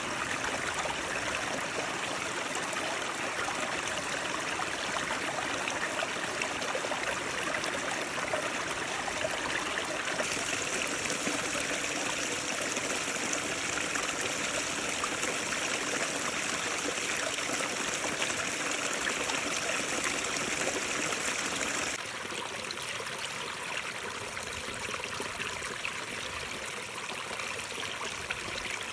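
Mountain waterfall water rushing and splashing in a steady hiss. About ten seconds in it turns suddenly brighter and hissier. About two-thirds of the way through it drops abruptly quieter and duller.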